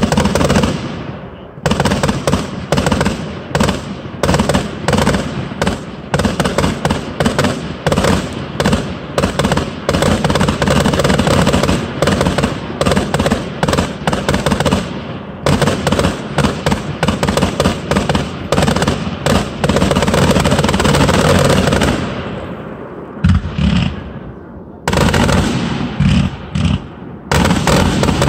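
Fireworks display: a dense, rapid run of bangs and crackling bursts, with a short gap about halfway and a quieter spell about three quarters of the way through before the bangs pick up again.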